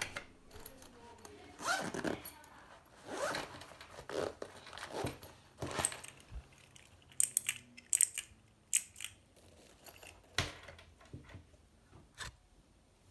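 Plastic product packaging being handled and opened: irregular rustling and tearing strokes, with a run of sharp clicks or snips partway through.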